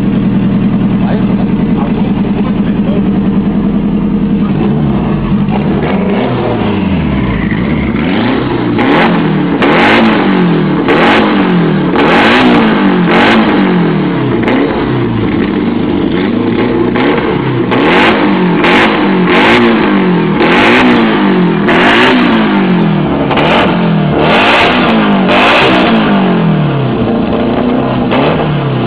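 VAZ-2110's twin-turbo engine idling, then revved again and again in quick rises and falls about once a second. A short sharp hiss comes at many of the revs.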